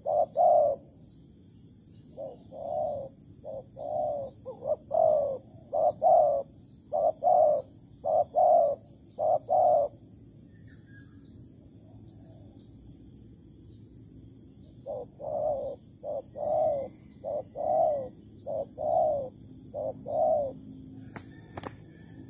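Spotted dove cooing in repeated phrases of short coo notes, falling silent for about five seconds midway and then starting a new phrase. Faint high chirps of small birds sound throughout, and there are a few clicks near the end.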